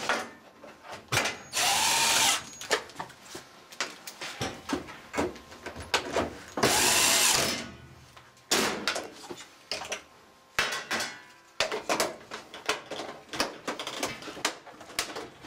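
Power driver driving screws in two short runs of about a second each, with scattered clicks and knocks of parts being handled between them.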